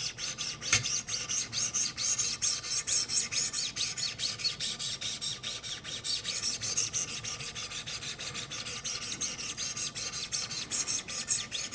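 800-grit sharpening stones on a Wicked Edge guided sharpener, stroked lightly and rapidly along an S90V steel knife edge in a quick even rasping, about five strokes a second.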